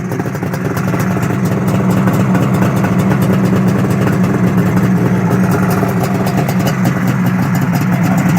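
1972 Suzuki GT750's three-cylinder, water-cooled two-stroke engine running steadily on its first start-up after a fresh rebuild, growing a little louder after the first second or so.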